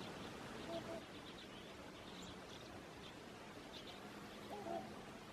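Faint, distant trumpeter swans giving two short honks, one about a second in and one near the end, with small birds chirping faintly in the background.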